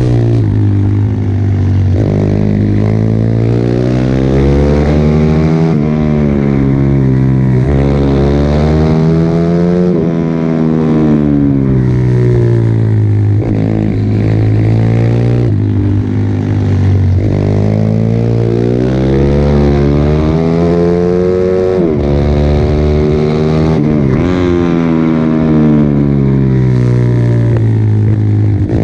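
Pit bike engine at racing pace, its pitch climbing under throttle and dropping off again every few seconds as the bike accelerates and slows through a series of corners.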